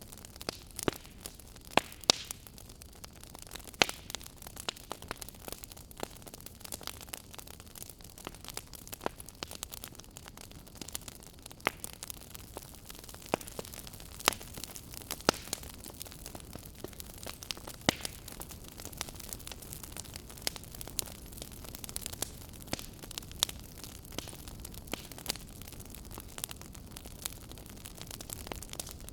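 Firewood burning, crackling with irregular sharp pops over a soft steady hiss, a few pops much louder than the rest.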